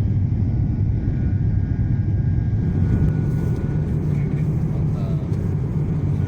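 Steady low rumble of a vehicle heard from inside it, with a faint thin steady tone above.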